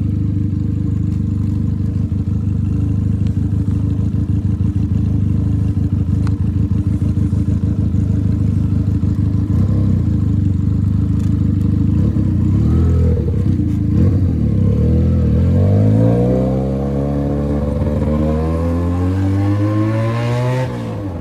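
Benelli 302 parallel-twin motorcycle engine running through a straight pipe with no silencer. It runs steadily at low speed for over half the time, then its pitch climbs steadily, with a brief dip and renewed rise near the end.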